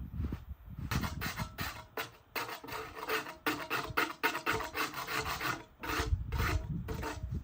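Rhythmic rasping strokes, several a second, like a hand tool working wood, with a short break before a last few slower strokes near the end.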